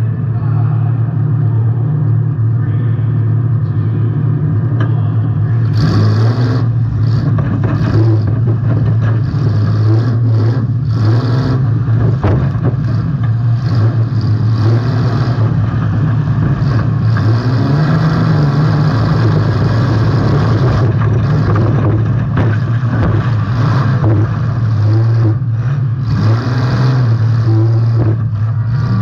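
Demolition derby car's engine running hard and revving, heard close from on board. From about six seconds in, repeated knocks and bangs come through over the engine.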